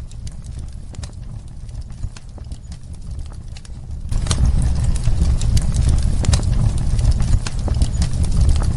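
Ambience of irregular sharp clicks and knocks over a low rumble, which grows clearly louder about four seconds in.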